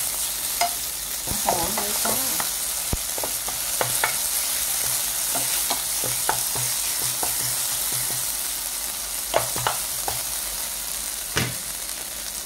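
Chopped chillies and garlic sizzling in hot oil in a nonstick frying pan while being stir-fried, with the spoon and spatula scraping and tapping against the pan every so often.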